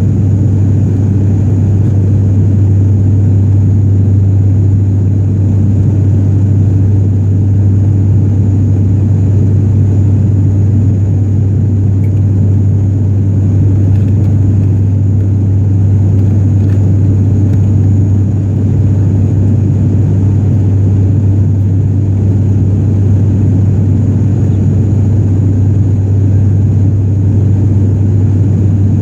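Steady, loud drone of a turboprop airliner's engines and propellers heard from inside the passenger cabin during the climb-out, with a strong constant low hum and a faint high whine above it.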